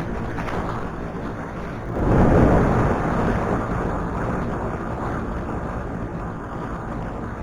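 Wind rushing over the action-camera microphone on a moving motorcycle, with the engine running underneath. About two seconds in a louder rush swells up suddenly, then dies away over a couple of seconds.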